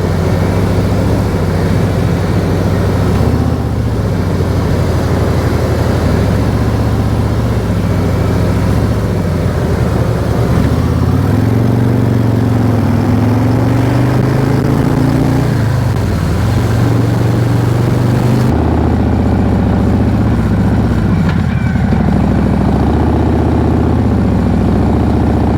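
Harley-Davidson V-twin motorcycle engine running under way, its revs rising and falling with the throttle and gear changes, over steady road and wind noise.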